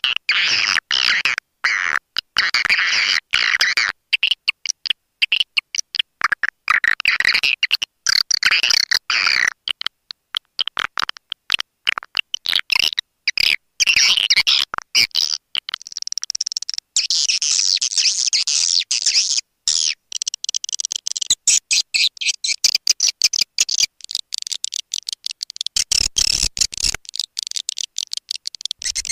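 Swiftlets twittering: a dense, rapid stream of high chirps and clicks, shifting higher in pitch around the middle. It is a swiftlet lure call of the kind played to draw birds into a nesting house.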